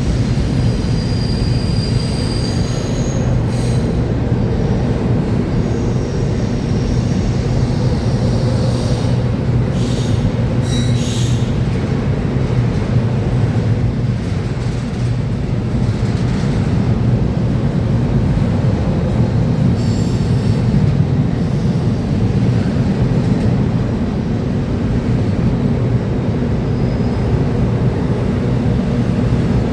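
Freight train rolling past with a steady rumble of wheels on rail, and thin high-pitched wheel squeals that come and go.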